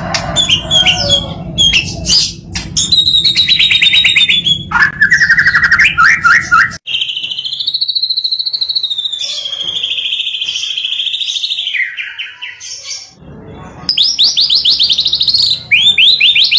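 Songbird song spliced together as cage-bird training material (masteran): fast trills and strings of rapid repeated chirps, with a long warbling run in the middle. The recording cuts abruptly from clip to clip, about a third and about four-fifths of the way through.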